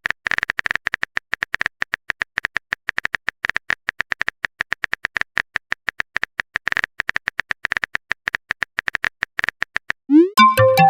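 Typing sound effect: a long run of fast, uneven keyboard-like clicks. About ten seconds in, a short electronic message chime with a quick rising glide and a few stepped tones.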